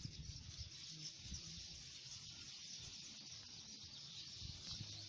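Quiet outdoor ambience: a faint steady hiss, with irregular low thumps and rumble on the microphone.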